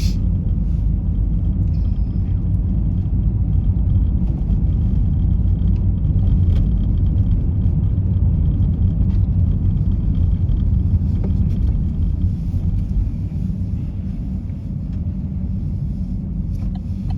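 Steady low rumble of a people carrier on the move, heard from inside the cabin: engine and road noise, easing slightly in the last few seconds.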